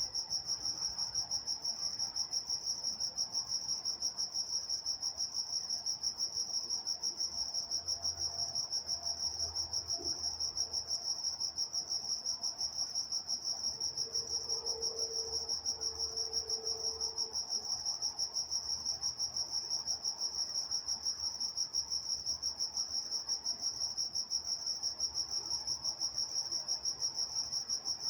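Crickets chirping in a steady night chorus: a high-pitched, continuous pulsing with a fast, even rhythm.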